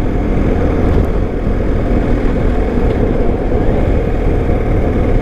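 BMW GS Adventure motorcycle riding along: steady engine and road noise mixed with wind rushing across the microphone.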